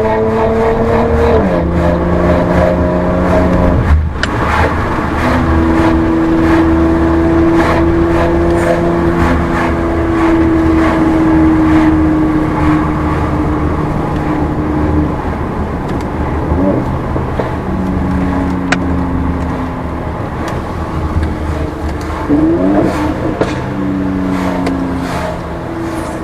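Mercedes-AMG C43 Coupe's twin-turbo V6 engine and exhaust under way. The engine note holds steady and drops in pitch at several gear changes, with a sharp crack at one shift about four seconds in and a few short rising revs near the end.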